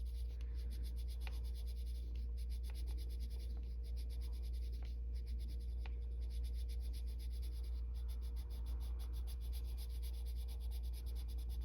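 Arteza coloured pencil scratching on paper in quick, even back-and-forth shading strokes, over a steady low hum.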